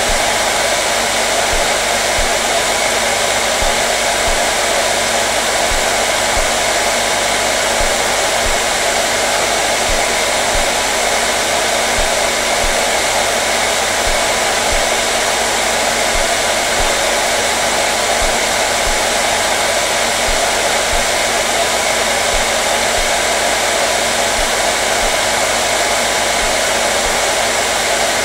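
Electric hair dryer running steadily on one setting: an even, unbroken rush of blown air with a faint motor hum underneath.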